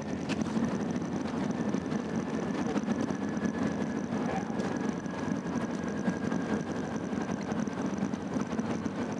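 Airbus A380-800 cabin noise during the landing rollout: a steady low rumble, with a faint high whine drifting slightly lower in pitch and a few light rattles.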